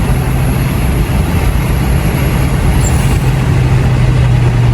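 Car engine running at a steady, unchanging speed, a constant drone under heavy road and wind noise.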